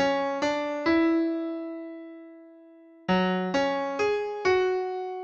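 Background music: an electric piano playing two short phrases of a few struck notes, each ending on a note left to ring and fade.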